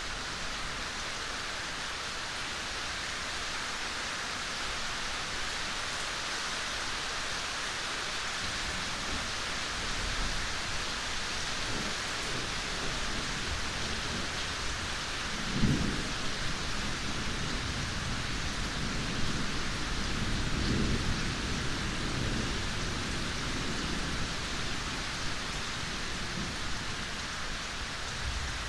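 Steady rain falling, with a low rumble of distant thunder rolling in about a third of the way through and fading in the last few seconds. A sharper, louder peak of the rumble comes about halfway through.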